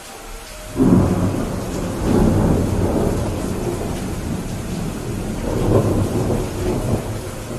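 Rain falling steadily, then a thunderclap breaks in just under a second in and rolls on as a long low rumble, swelling twice more before it fades.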